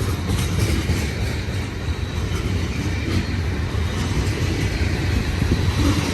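Freight cars of a heavy manifest train rolling past on the climb: a steady low rumble of wheels on the rails.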